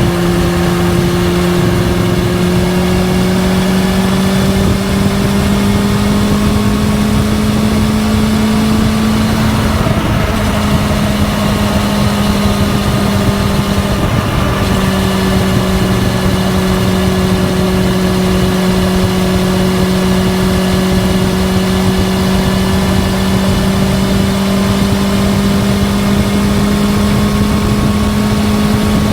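Honda CB400SF inline-four engine running through a Yoshimura titanium full exhaust system while riding. It holds a steady note that slowly climbs in pitch, with two brief dips about ten and fourteen seconds in.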